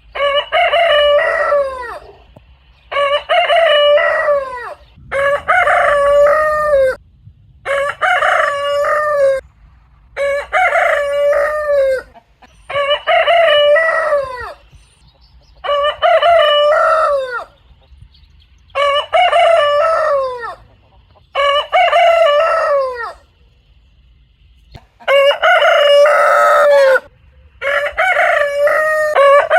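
A rooster crowing again and again: about eleven loud cock-a-doodle-doo crows, each about two seconds long and ending in a falling note, with short pauses between them and one longer pause near the end.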